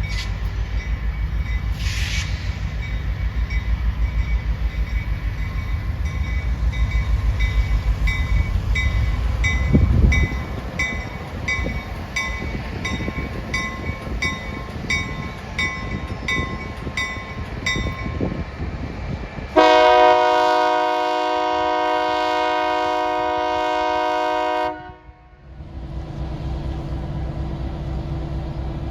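Train passing a railroad crossing: a railroad bell rings steadily over a low rhythmic rumble from the train. After that comes one long, loud blast on the train's multi-note horn, about five seconds long, which cuts off sharply. A steady low running hum follows.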